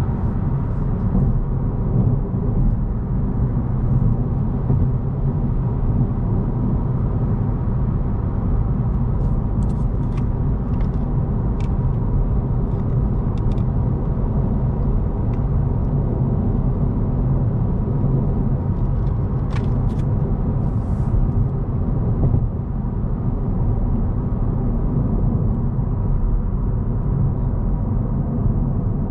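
A 2025 Honda Civic driving on the road, heard from inside the cabin: a steady low rumble of engine and tyre noise. A few faint clicks come through around the middle.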